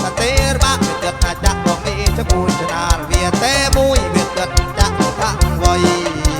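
Live kantrum music played through a PA system: a steady drumbeat under a melody that slides and bends in pitch.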